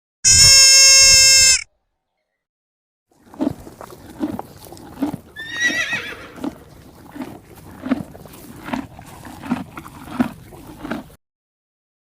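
A loud, steady, high bleat of a farm animal lasting about a second and a half. After a pause it is followed by a quieter, even rhythm of soft thuds about every three-quarters of a second, with one brief high rising squeal partway through.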